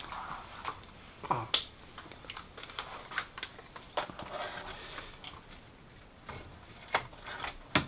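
Scattered light clicks and taps, irregular and a few per second, from hands and tools handling parts around the alternator.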